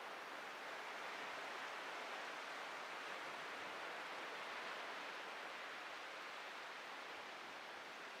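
Ocean surf washing onto a beach: a steady hiss of breaking waves that swells slightly a few seconds in and eases off toward the end.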